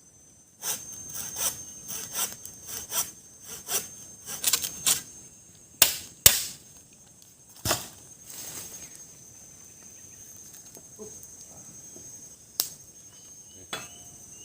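Wood being worked with a blade: a run of rhythmic cutting strokes, about two a second for some four seconds, followed by three sharp knocks. A steady high insect drone runs underneath.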